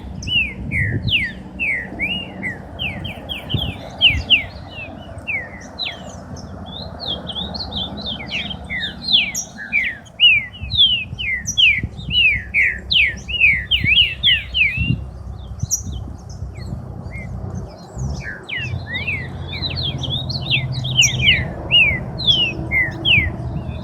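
Many captive songbirds chirping at once, a dense stream of short, quick downward-sweeping chirps overlapping one another.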